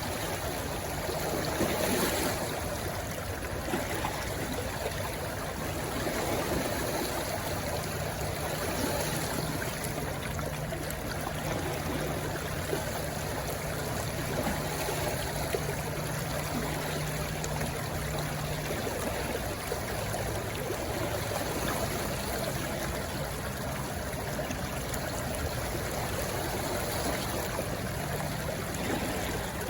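A shallow stream rushing and trickling over stones, a steady flow with small swells.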